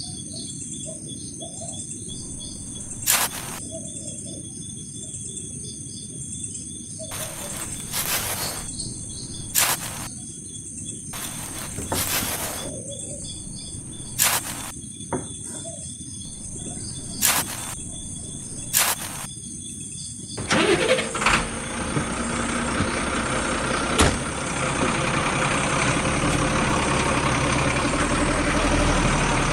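Outdoor bird and insect sounds with steady high-pitched chirring, broken by short sharp knocks every second or two. About two-thirds in, an engine starts and then runs steadily.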